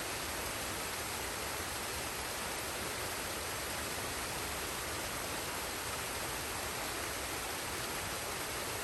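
Steady rush of a forest waterfall and stream, an even hiss of falling water with no breaks or changes.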